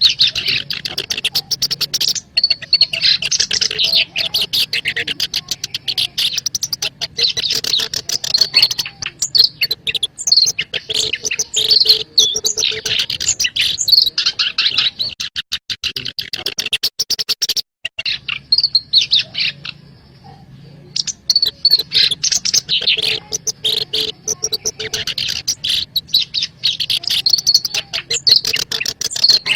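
Black-browed reed warbler singing: a fast, continuous run of harsh chattering and warbled notes, with a short break about twenty seconds in.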